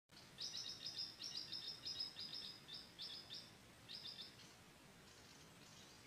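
A bird calling: a quick run of short, high-pitched chirps, about five a second, then after a brief pause two more and a few faint ones before they die away.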